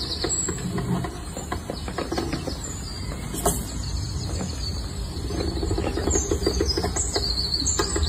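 Small birds chirping and twittering over a steady low outdoor rumble.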